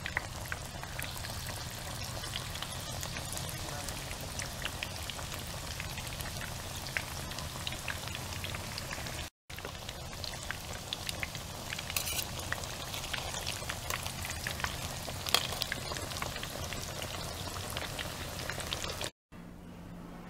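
Tempura-battered catfish fillets deep-frying in hot oil: a steady sizzle full of small crackling pops. The sizzle drops out briefly about nine seconds in and stops abruptly near the end.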